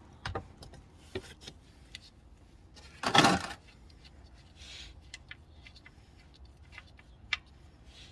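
Scattered light metallic clicks and clinks of hand tools and the sump plug being handled while the engine oil drains, with one louder half-second clatter about three seconds in.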